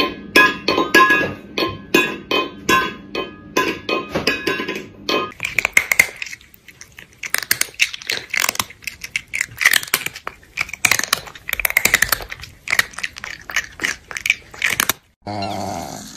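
Metal cat food bowls clanking over and over, about three knocks a second, as cats paw at them. After about five seconds come a string of short, irregular cat calls.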